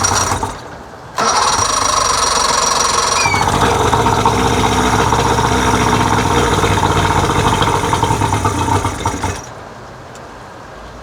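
A 1999 Johnson 70 hp two-stroke outboard being cranked on its electric starter: a short crank, then a longer one. About three seconds in the engine catches and runs for about six seconds, then stops suddenly. The carburetors have just been synchronized, and the engine is not yet staying running.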